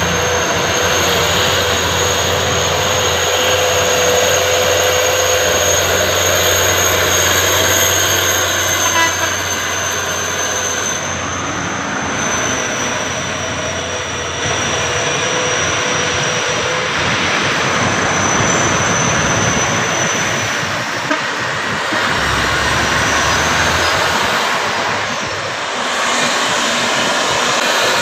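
Truck running with a steady noisy rush and a faint high whine that slowly drifts lower and fades about two-thirds of the way in.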